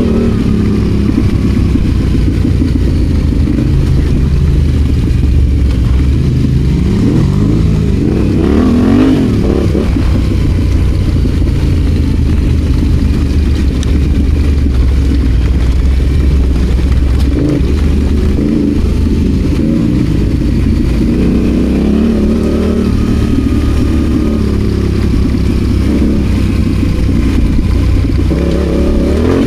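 Adventure motorcycle engine running while ridden, its pitch rising and falling as the throttle is worked, over a constant low rumble.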